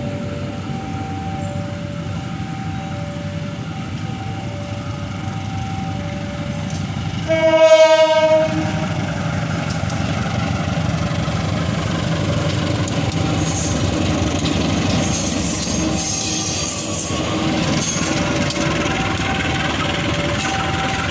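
A train running past with a steady rumble. About eight seconds in, the locomotive sounds one short, loud horn blast.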